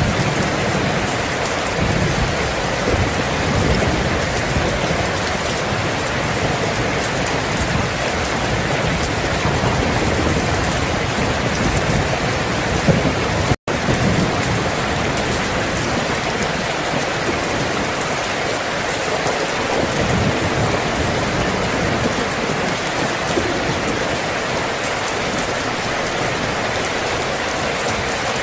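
Steady heavy rain hissing on surfaces, with low rumbles of distant thunder swelling in and out. About halfway through, the sound drops out for a split second, like a splice in the recording.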